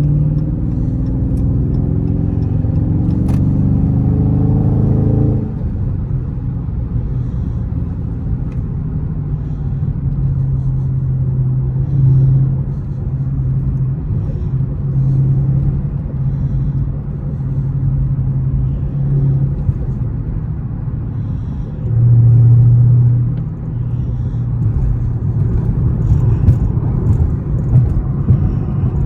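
Dodge Charger Scat Pack's 6.4-litre HEMI V8 accelerating for about five seconds with its pitch rising, then settling into a steady low drone while cruising. A brief louder surge comes about three-quarters of the way through.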